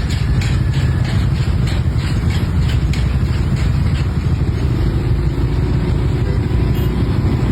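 A loud, steady low rumble, with faint rattling clicks scattered through it.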